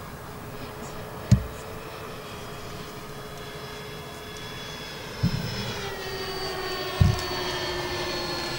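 Twin 70 mm twelve-blade electric ducted fans of an RC Boeing 737 MAX 8 model whining steadily in flight. The whine drops in pitch a little before six seconds in. Three brief low thumps about a second, five seconds and seven seconds in are the loudest sounds.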